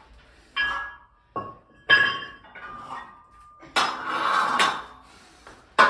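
Iron weight plates clinking and clanking on a barbell as a plate is loaded: a handful of sharp metallic strikes that ring briefly, with a longer rattling clatter about four seconds in.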